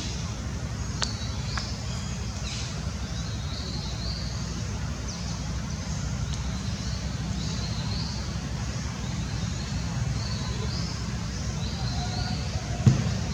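Outdoor ambience: a steady low rumble with many short, high rising chirps repeating about once a second, a faint click about a second in, and a sharp thump near the end.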